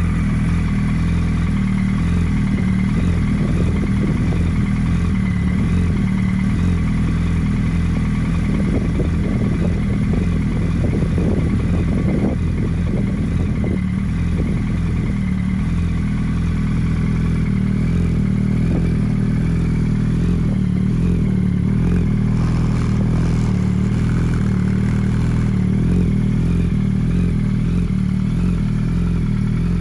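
A Yamaha R1's inline-four engine, fitted with an Akrapovic Y-pipe and Scorpion canister exhaust, idling steadily. There is a patch of irregular clatter about ten seconds in.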